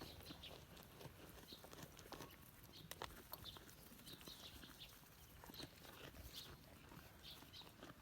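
Near silence: faint outdoor ambience with scattered short, high chirps and a few light clicks.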